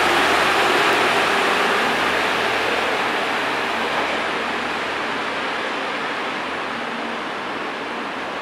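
HB-E300 series hybrid resort train pulling away on departure, its running noise a steady rumble that fades gradually as it recedes.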